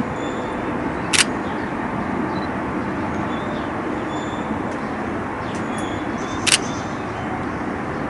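Two shutter releases of a Canon 90D DSLR, one about a second in and one near six and a half seconds, the loudest sounds here, over a steady rumble of traffic with a few faint high bird chirps.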